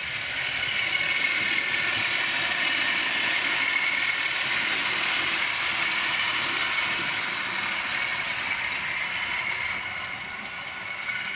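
Model train running on the layout's track: a steady electric motor whine and rattle of wheels on rail that grows louder over the first second or two and fades toward the end as it passes close by.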